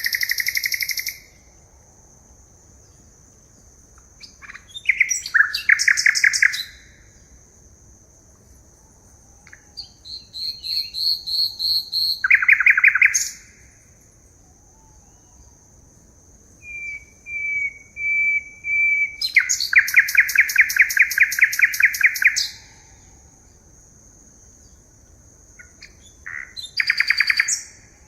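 Forest birds singing: about five bouts of fast trilled or repeated notes, each one to three seconds long, with the longest trill running about three seconds near the middle. A steady high-pitched whine continues underneath.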